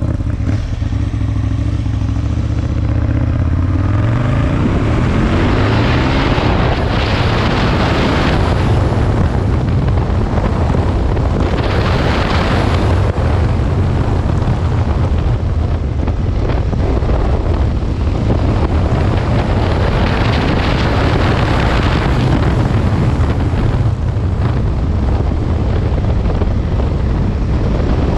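Aprilia Tuono 1000's V-twin engine pulling away with a rising pitch about four seconds in, then running steadily at speed with road and wind noise.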